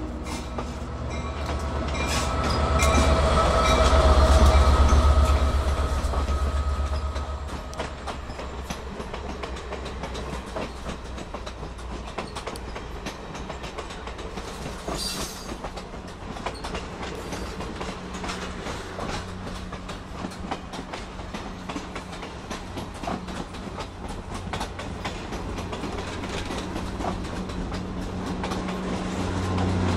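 EMD GP59 diesel locomotive passing close by, its engine rumble loudest a few seconds in. A string of passenger cars then rolls past with a steady clickety-clack of wheels over rail joints. Near the end the low hum of a second locomotive, an FL9 at the rear of the train, grows louder.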